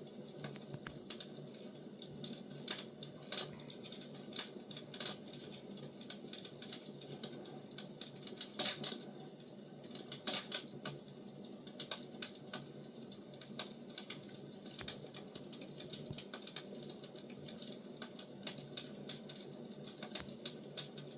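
Firewood burning, crackling with irregular sharp pops and snaps, several a second, over a low steady rush of the flames.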